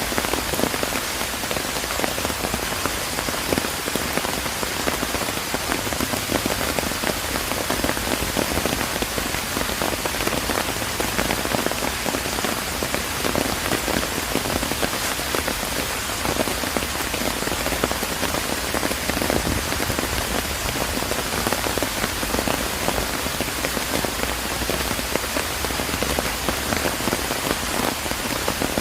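Steady rain falling, a dense hiss of many drops pattering on surfaces.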